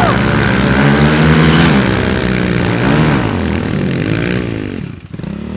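Dirt bike engine revving hard, its pitch rising and falling several times, then dropping away near the end.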